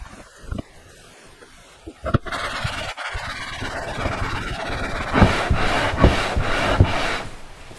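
A 1981 Honda CB650 aluminum cylinder head being rubbed back and forth on an abrasive surface by hand to resurface it. After a few light knocks, a steady gritty rasping starts about two seconds in and settles into regular strokes roughly twice a second near the end.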